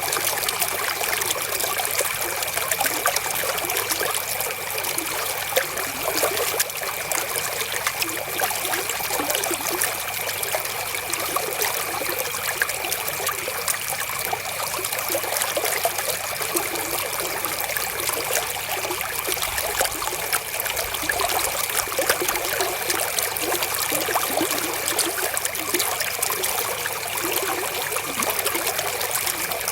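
Flowing river water: a steady, unbroken babble of trickling and small splashes.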